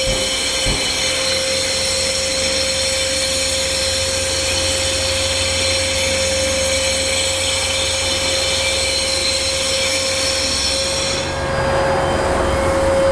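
Electric high-speed concrete floor grinder with a diamond blade running steadily, grinding the top coat off a concrete floor, with its dust extractor vacuum running alongside in a steady tone. About eleven seconds in the grinder's high whine drops away while the extractor keeps running.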